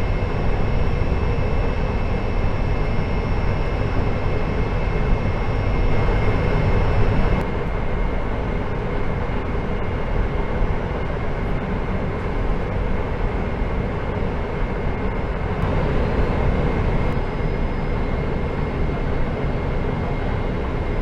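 Steady cabin rumble and hiss inside a Boeing 747-400 after landing, with a thin high engine whine. The whine and part of the low rumble drop away about seven seconds in.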